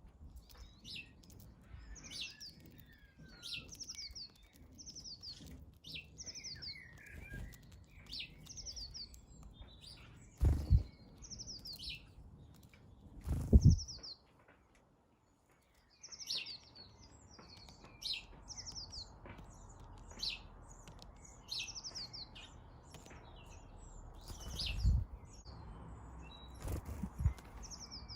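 Small garden birds chirping: short, high, falling calls repeated about once a second. Several loud low thumps break in, and the sound drops out briefly about halfway through.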